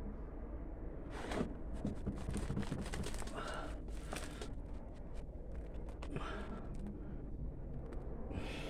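Irregular crackling and rustling of potting soil and potato roots being pulled apart by hand, heaviest in the first half, over a steady low rumble of wind on the microphone.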